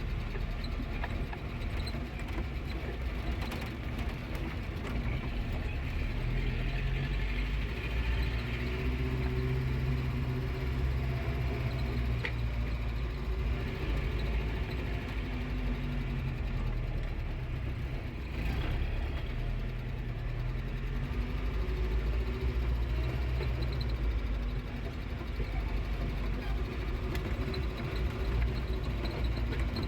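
A vehicle's engine running as it is driven over a rough track, its pitch rising and falling with the load, with a couple of brief knocks.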